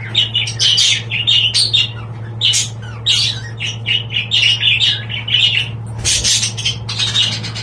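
Budgerigars chattering in a rapid, continuous run of short squawky chirps, with a steady low hum underneath.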